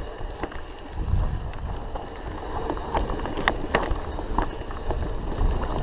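Mountain bike riding over a rough dirt trail: tyre noise with scattered knocks and rattles from the bike, and wind rumbling on the microphone, which starts about a second in and grows louder near the end.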